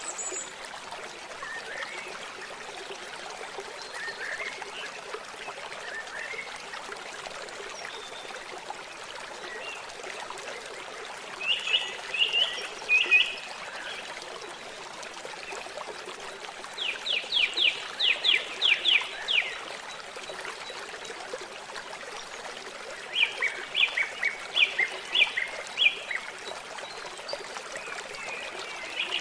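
Water trickling steadily at a lake shore, with three short runs of rapid chirping calls from a small animal, about five calls a second, coming roughly every six seconds from about twelve seconds in.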